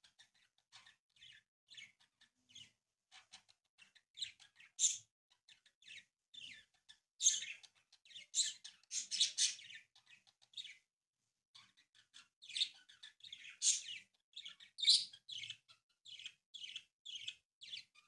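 Bird chirping: a long, irregular run of short, high chirps, busiest around the middle and again towards the end.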